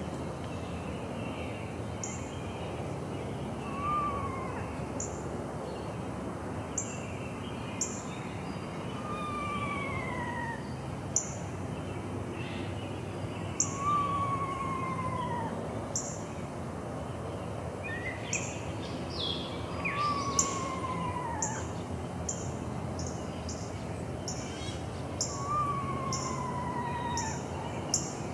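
An unidentified animal's call: a slurred whistle falling in pitch, each about a second long, repeated five times about every five seconds. Short high chips sound at intervals throughout, more often in the second half, over steady outdoor background noise.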